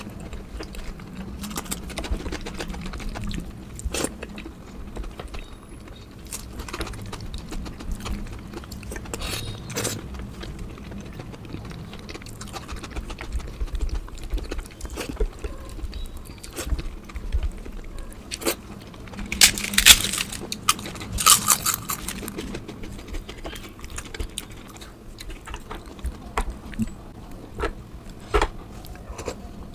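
Close-miked mukbang eating sounds: chewing, lip smacks and small clicks of food and utensils, with a louder crackly stretch about twenty seconds in.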